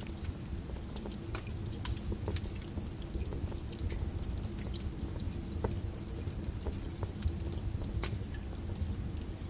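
Wood fire burning in a fireplace: a steady low rumble of flames with scattered crackles and pops from the logs, one sharper pop about two seconds in.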